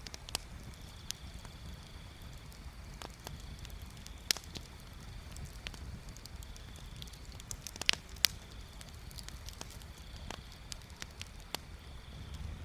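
Bonfire crackling: scattered sharp pops and snaps over a low, steady rumble, with the loudest pops about four seconds in and around eight seconds.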